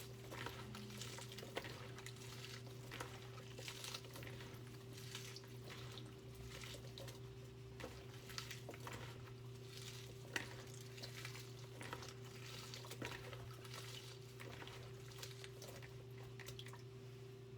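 Hands squeezing and kneading sliced banana trunk in salted rice-rinse water in a bowl: irregular wet squelches, drips and small splashes, over a steady low hum.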